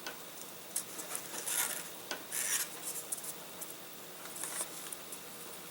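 Balsa wood parts rubbing and scraping against each other and the bench as they are handled and pressed together, in short irregular scratchy strokes.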